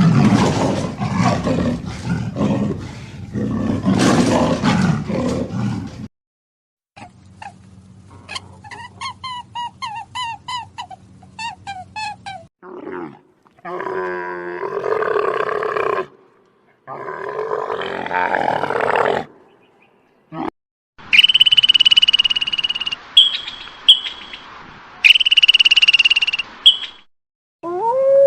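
A series of different animal calls cut one after another: a loud, rough call lasting about six seconds, then a run of short chirping notes, two shorter calls, and high drawn-out calls near the end.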